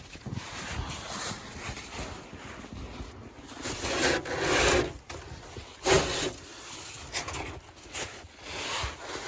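Boots wading through deep snow: irregular scuffing, rustling steps, the loudest about four and six seconds in.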